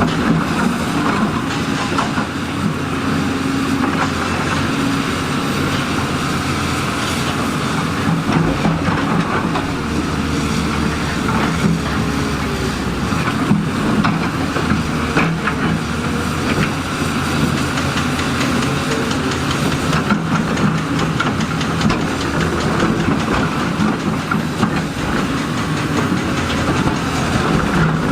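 Heavy diesel earthmoving machinery running steadily, with many irregular metallic clanks and rattles.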